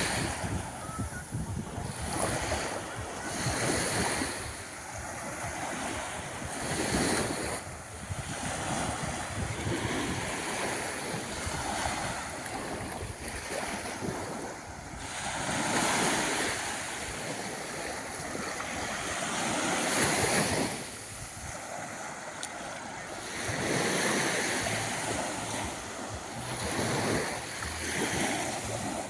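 Small sea waves breaking and washing up on a sandy shore, swelling and fading every few seconds, with wind buffeting the microphone.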